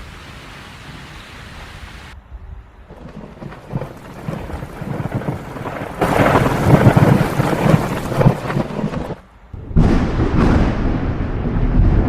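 Steady rain from a thunderstorm, then thunder rumbling that builds to a loud, deep roll over the rain from about halfway through. The sound drops out briefly near the end before the rumble comes back loud. It changes abruptly several times.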